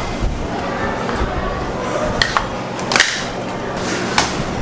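Three sharp knocks, one after another, over a steady low hum and faint background voices.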